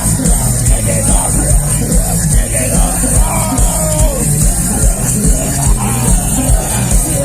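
Live rock band playing at full volume, driven by a steady, even kick-drum beat under a wavering melodic line.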